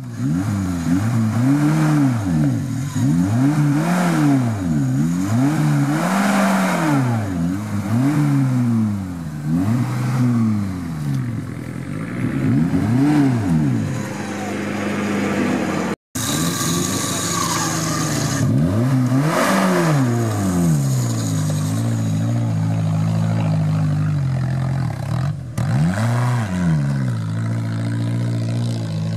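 Suzuki Samurai engine revving up and falling back again and again, a rise and fall every second or two, as the 4x4 claws through deep mud. After a brief cut about halfway it revs a few more times, then settles into a steadier run.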